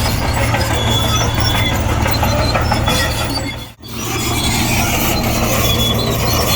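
Komatsu D58E crawler bulldozer running under load as it pushes soil: a steady diesel drone with clattering track noise and a short high squeal near the start. The sound dips out abruptly for an instant a little past halfway, then resumes.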